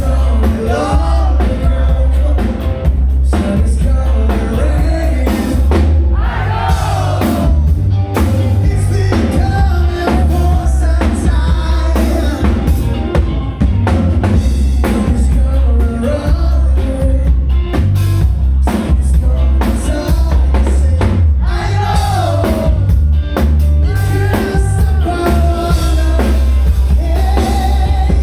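Rock song with a sung lead vocal over a drum kit and bass.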